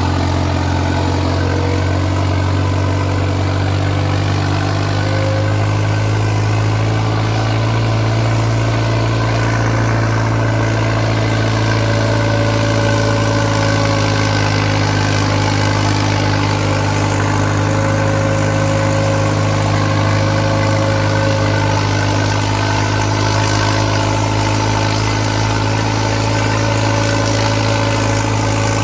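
New Holland 5630 4WD tractor's diesel engine running steadily and loudly under heavy load while pulling two harrows, its pitch rising slightly about five seconds in and then holding.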